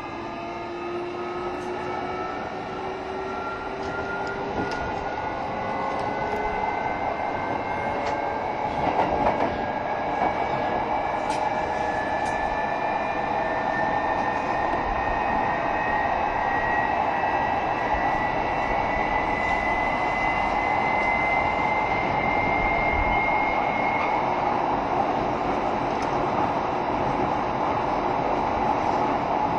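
JR Shikoku 7200 series electric train heard from on board while accelerating. The inverter-driven traction motors whine in several tones that climb together for about twenty-four seconds and then level off, over growing wheel-on-rail running noise with a few rail-joint clicks.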